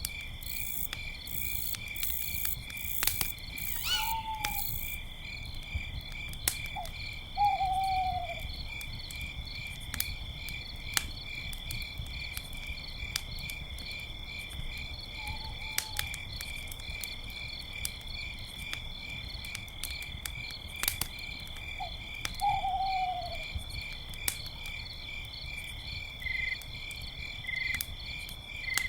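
An owl hooting four times, short notes that fall in pitch, over crickets chirping steadily. Scattered sharp pops and crackles of a campfire run underneath.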